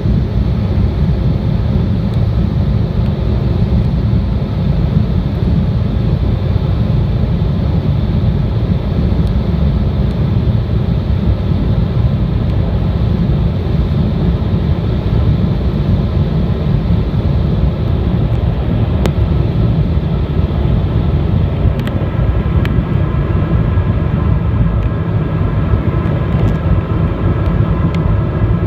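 Cabin noise inside an Embraer 175 jet in flight: a loud, steady low rumble of airflow and its GE CF34-8E turbofan engines. A faint whine of several steady tones grows in about two-thirds of the way through.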